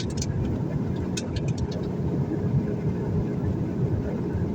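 Airliner cabin noise on the approach to landing: the steady low rumble of the engines and airflow, with a few light clicks near the start and about a second in.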